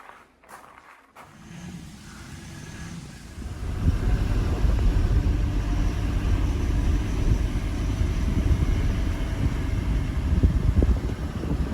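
A car's steady road and engine rumble, fading in over the first few seconds and then holding steady.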